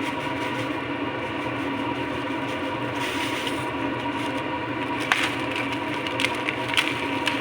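A steady hum runs throughout. From about five seconds in come sharp, irregular crackles and clicks as a packet of dry noodles is handled and shaken over the pot.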